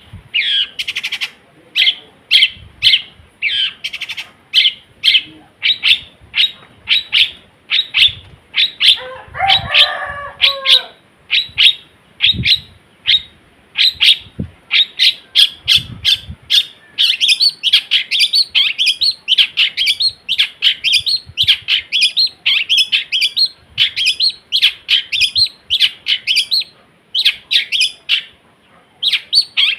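Long-tailed shrike (cendet) singing a fast string of short, sharp chattering notes, several a second, with imitations of other sounds mixed in. A lower call of several pitches sounds about nine seconds in, and the notes crowd closer together in the second half.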